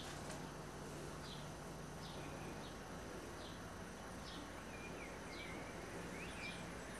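Small birds chirping: short, high chirps that drop in pitch, repeated roughly once or twice a second, with a few lower chirps joining in the second half, over a steady background hiss.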